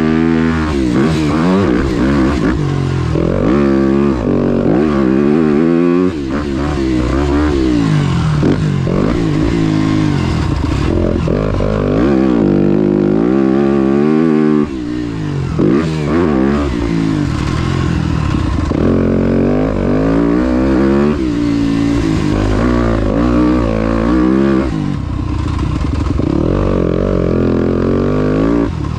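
Motocross dirt bike engine revving hard and backing off over and over, its pitch climbing and falling through the gears as it is ridden around the track. The engine dips briefly a few times, most clearly about halfway through.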